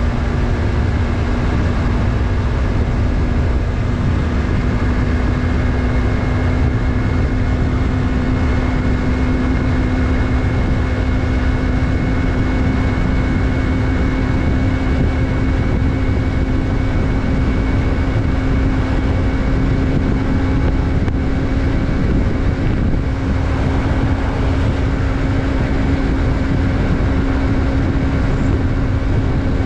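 Yamaha MT-03's 321 cc parallel-twin engine running at a steady cruise, its note holding nearly constant and creeping slightly higher, over a heavy low rush of wind and road noise.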